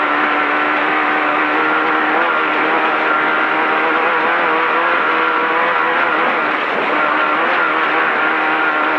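Off-road race vehicle's engine running at high, nearly steady revs, pitch wavering slightly, over a constant rush of road and wind noise, heard onboard.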